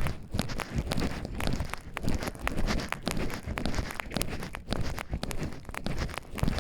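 Footsteps walking at a steady pace on a forest path, with crunches and clicks underfoot.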